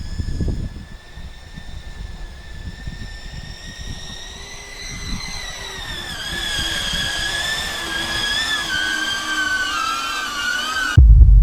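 Airscaphe X4 Pro caged drone's propellers whining in flight, with gusts of wind rumbling on the microphone. About halfway through the whine gets louder and its pitches rise, spread and waver as the motor speeds change; near the end it cuts off suddenly and a loud low hum takes over.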